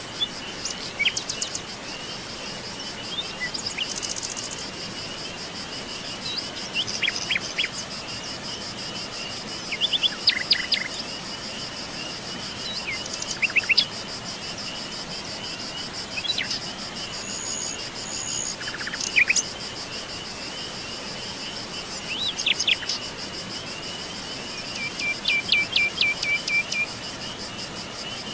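Forest birds calling with short scattered chirps and trills, several of them quick rapid series, over a continuous high, fast-pulsing insect trill and a steady background hiss.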